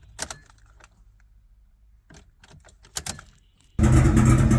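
A few light clicks and key rattles, then about three-quarters of the way in a Mitsubishi 4G63 four-cylinder engine suddenly fires and runs loudly. This is a cold start after three months of sitting, on a weak battery, and the engine is only just running.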